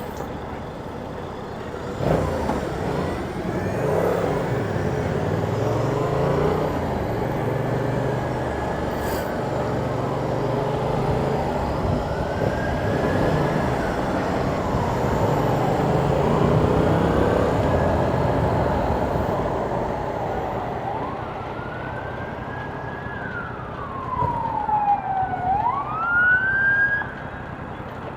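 A motorcycle riding at speed with wind noise, its engine note stepping up and down through gear changes. Near the end a loud whine falls and then rises again.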